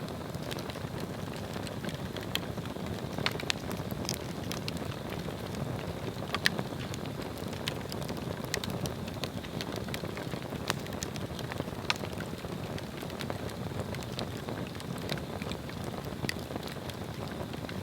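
Swedish torch log burning: a steady low rush of flames with scattered sharp crackles and pops from the wood.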